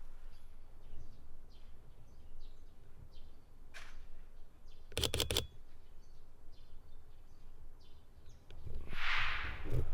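Small birds chirping faintly, in short scattered calls. About halfway through comes a quick run of sharp clicks, and near the end a brief hissing rush.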